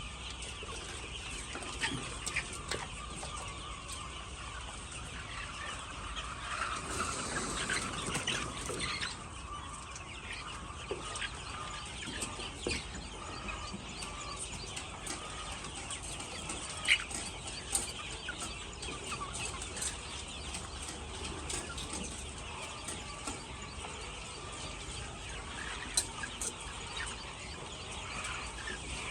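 Chickens clucking steadily, a continuous chatter of short calls that grows busier about a quarter of the way in, with a couple of sharp clicks later on.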